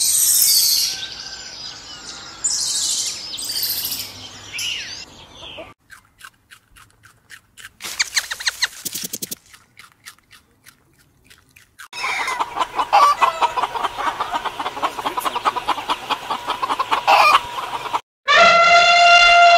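A series of animal sounds. First some high-pitched calls. Then a rabbit chewing a carrot, heard as quick, sharp crunching clicks. Then hens clucking for several seconds, and near the end an elephant trumpeting, a loud call that starts suddenly.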